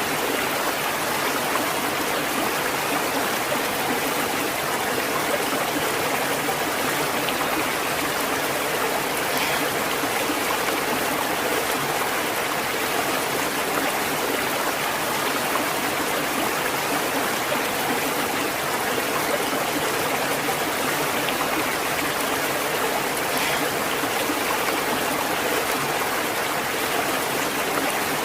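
Stream of water flowing steadily, an even rushing and babbling.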